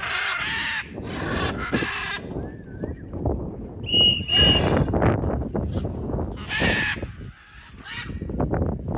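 Free-flying pet parrots screeching in a run of harsh calls, with two short whistled notes about four seconds in, over low wind rumble on the microphone.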